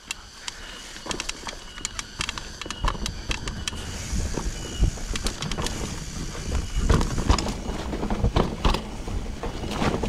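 Mountain bike riding a rough dirt trail: wind buffeting the microphone and tyre rumble, louder from about three seconds in, with many sharp clicks and rattles from the bike over bumps.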